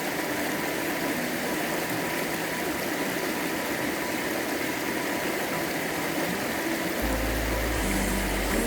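A stream's water rushing steadily. About seven seconds in, background music with low bass notes begins over it.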